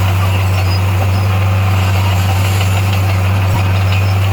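Bulldozer's diesel engine running steadily, a loud, even, low drone, with one brief click about three and a half seconds in.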